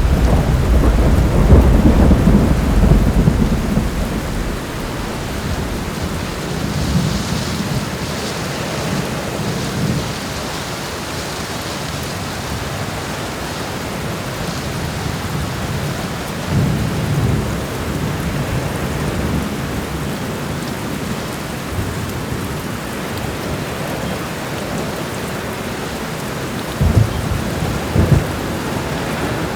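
Steady rain in a thunderstorm, with a long low rumble of thunder at the start that dies away over about four seconds and weaker rumbles later. Two short low thumps come near the end.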